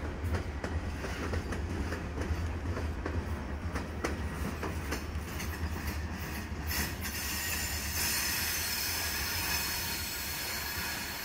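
Railroad cars rolling past with a steady rumble and the wheels clicking over rail joints. From about seven seconds in, a loud, high squeal of the wheels on the rail joins in.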